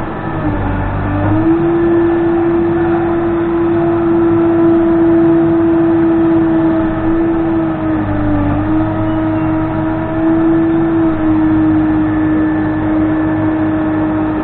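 Case 580N backhoe's diesel engine running at working revs with a steady whine, its pitch stepping up about a second and a half in and dipping briefly around eight and a half seconds in as the hydraulics take load.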